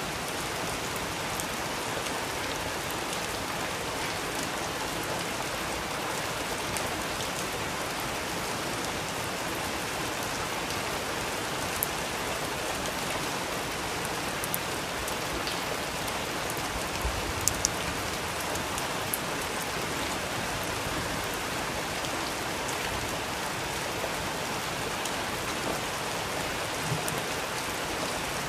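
Steady rain falling, an even hiss, with a few short sharp ticks now and then, the loudest a quick pair about two thirds of the way through.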